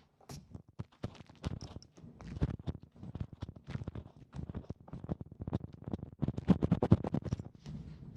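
Close-miked ASMR ear-cleaning sounds: scratching and rubbing at the ear, a dense irregular run of crackles and clicks over a low rumble, busiest about six to seven seconds in.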